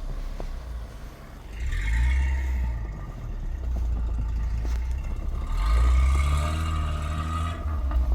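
An off-road vehicle's engine revving in snow, the sound swelling and easing several times as the driver works the throttle.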